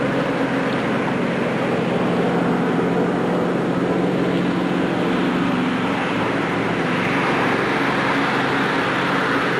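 Motor vehicle engine running steadily, a constant hum over a rushing noise.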